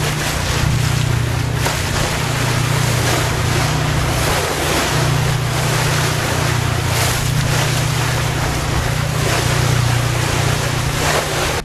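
Loud rush of wind and water aboard a sailing ship under way, with a steady low rumble and a few stronger gusts on the microphone.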